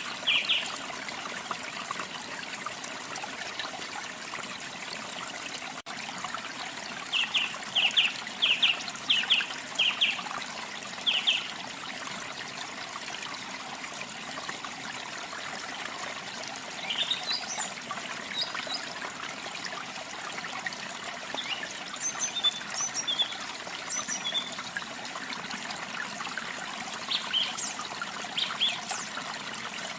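Steady sound of running water, with birds calling over it: a short series of quick repeated notes at the start, another run of about eight notes from about 7 to 11 seconds in, and scattered higher chirps through the second half.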